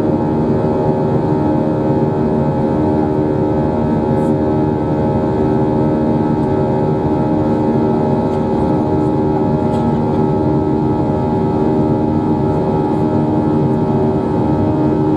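Airbus A321 jet engines running steadily, heard inside the cabin as a constant hum made of several held tones over a rushing noise, with no rise or fall.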